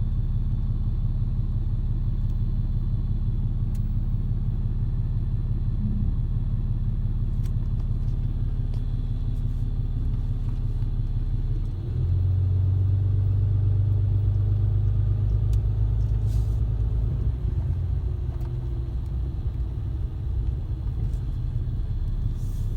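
A 2015 Ram 2500's 6.7-litre Cummins turbo-diesel inline-six runs steadily as the truck is driven on the road, a low drone. About halfway through the drone drops in pitch and gets louder, and holds there for a few seconds before easing off slightly.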